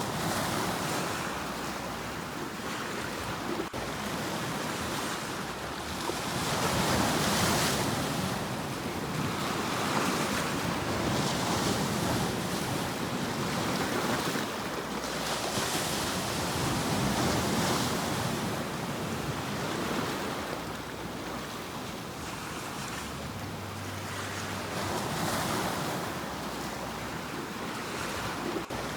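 Sea waves breaking and washing ashore: a continuous rush of surf that swells and falls back every few seconds.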